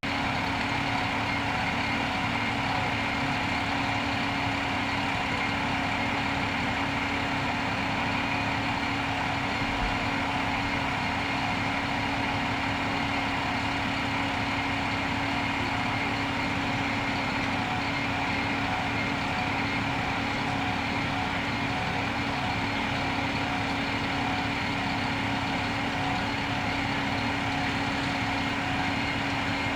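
A vehicle engine idling with an even, unchanging hum.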